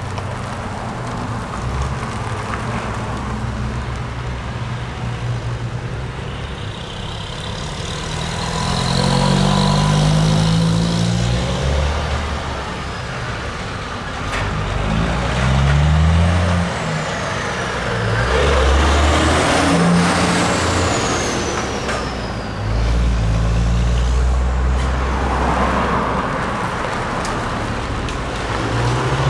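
Heavy diesel trucks driving past one after another, engines rising in pitch as each pulls away. A high whine falls in pitch partway through.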